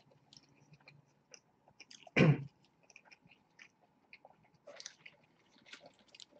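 Close-miked chewing of a McDonald's burger, with small wet mouth clicks and crackles. One short louder sound comes about two seconds in.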